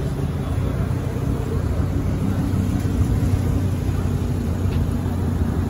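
Car engine running steadily at low revs, a low even rumble.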